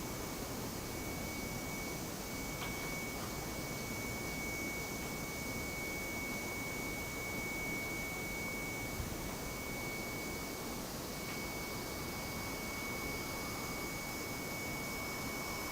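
A steady high-pitched tone, one pure pitch held unbroken, over an even background hiss.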